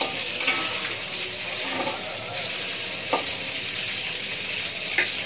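Salted squid frying in hot oil in a pan, a steady sizzle, with a few short clinks of a utensil against the pan.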